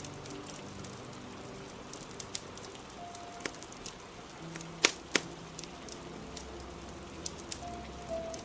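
Steady rain with a crackling fire: scattered sharp pops and snaps, two louder ones about five seconds in, over faint soft music.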